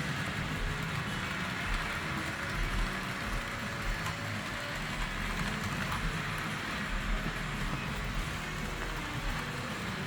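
Model train running on layout track: a steady rolling rumble with hiss from the wheels and motor.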